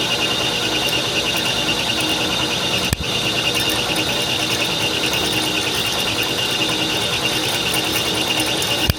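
Steady machinery noise with a constant high whine over a dense rushing din, briefly broken about three seconds in.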